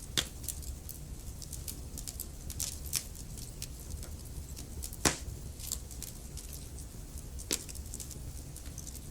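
Wood fire crackling: a steady low rumble of flames under frequent small crackles, with a few louder pops, the loudest about five seconds in.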